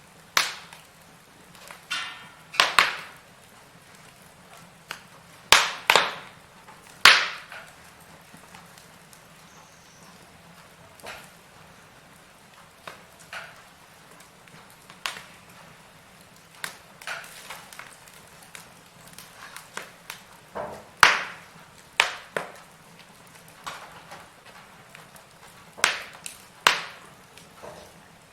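Firewood burning in a fireplace, crackling with irregular sharp pops and snaps over a faint hiss; a handful of the snaps are much louder than the rest.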